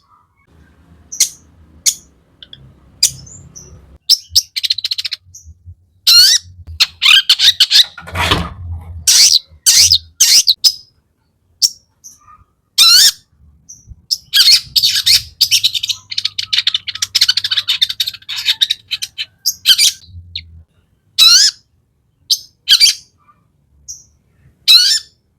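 Long-tailed shrike (cendet) singing loudly in a mix of short, sharp, harsh calls and chirping mimicry, with a long run of rapid chattering in the middle.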